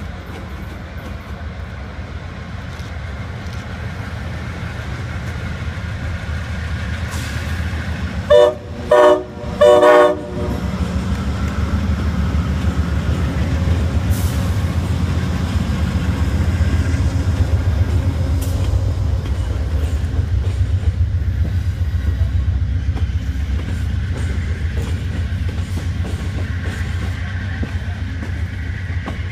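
Amtrak GE P42DC diesel locomotive approaching and sounding its horn in three short blasts about eight seconds in, followed by the steady rumble and clickety-clack of its passenger cars rolling past close by.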